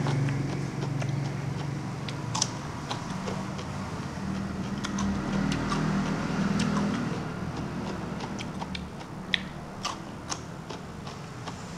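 Close-miked chewing and mouth noises of a man eating by hand: wet smacks and sharp clicks come every second or so, over a low steady hum.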